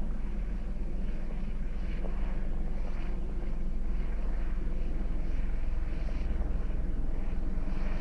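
A steady low droning rumble with a fainter hiss above it that swells and fades slightly, the strange sound the uploader attributes to an unidentified object circling the area.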